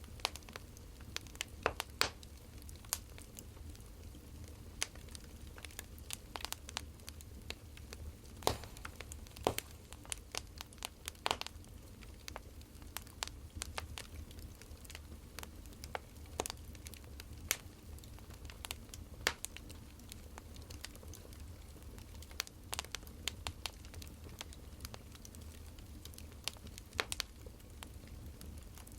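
Burning firewood crackling: irregular sharp pops and snaps, a few a second at most, over a steady low hum.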